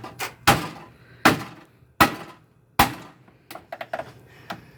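The door window assembly of a Whirlpool Duet washing machine being struck and broken open. About five hard, sharp blows come in the first three seconds, then a quick run of lighter clinks and clicks.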